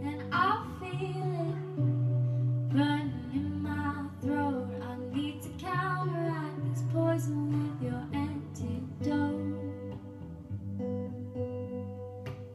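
A woman singing a slow ballad verse over acoustic guitar accompaniment.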